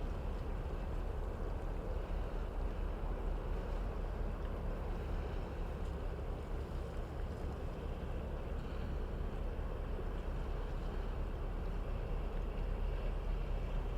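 Steady wind blowing, a continuous deep rushing noise without a break.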